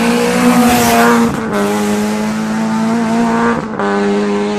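Rally car engine held at high, nearly steady revs under load, breaking off briefly twice, about a second and a half in and again near the end, as it drives the stage.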